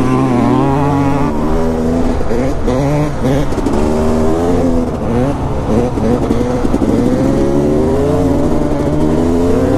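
Dirt bike engines revving, the pitch rising and falling again and again with the throttle.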